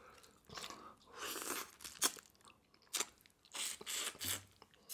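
Close-miked chewing and crunching of a shell-on jumbo prawn: irregular short bursts of mouth noise, with sharp crunches about two and three seconds in.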